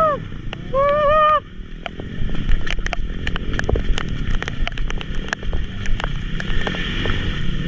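Honda XRM125 underbone's small single-cylinder four-stroke engine running as it rides a muddy, rough track, with many sharp knocks and rattles throughout. A brief high-pitched tone sounds about a second in.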